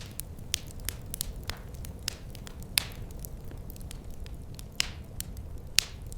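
Fireplace fire crackling: irregular sharp pops and snaps, a few louder ones, over a steady low rumble of the flames.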